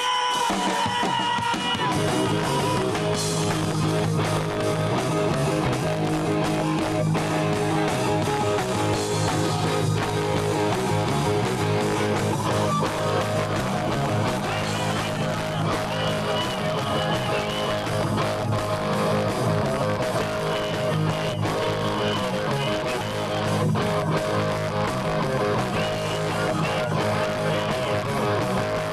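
Rock band playing live: strummed electric guitar over bass and drums.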